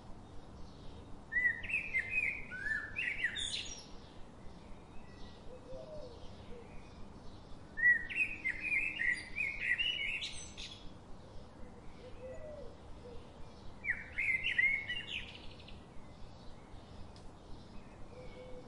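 A songbird singing in repeated phrases, three times, each a couple of seconds of quick, high chirping notes. Between the phrases there is fainter, regular chirping a few times a second.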